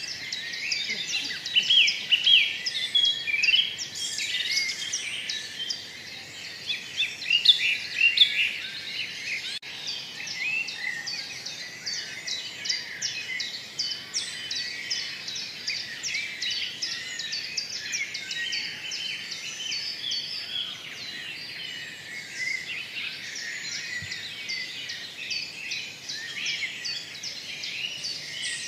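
A dense chorus of small birds chirping, with many short high calls overlapping without a break. It is busiest and loudest in the first eight seconds or so.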